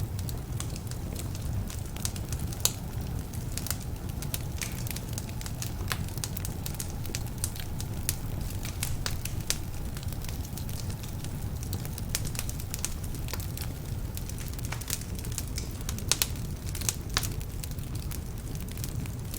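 Wood fire burning in a fireplace: a steady low rumble of flames with frequent irregular crackles and occasional louder pops from slightly damp logs.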